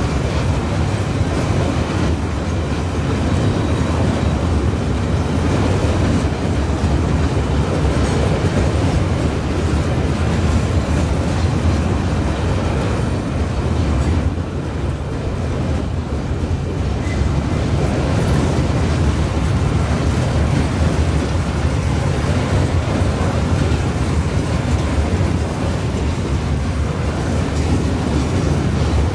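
Long coal train of open-top hopper wagons rolling steadily past, its wheels rumbling on the rails, with a thin, high-pitched wheel squeal coming and going several times.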